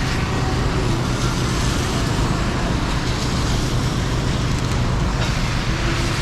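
Heavy rain over city street traffic: a steady wash of rain and tyres on wet road, with a low engine hum running underneath.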